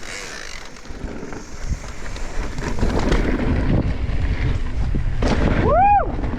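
Mountain bike rolling down a dirt trail, with tyre and frame rattle and wind buffeting the microphone, getting louder as the bike picks up speed. Near the end a short whoop rises and falls in pitch.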